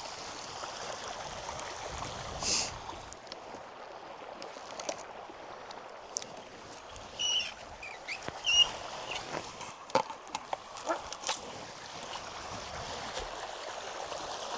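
Steady rushing of a flowing stream or river. Two short, high-pitched bird calls come about seven and eight and a half seconds in, and a few sharp clicks follow soon after.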